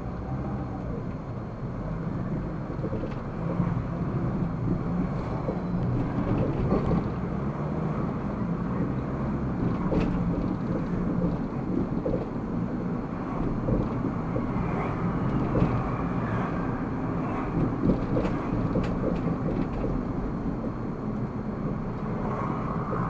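Car driving: steady engine and tyre noise heard from inside the cabin, with a low hum and a few faint clicks and knocks.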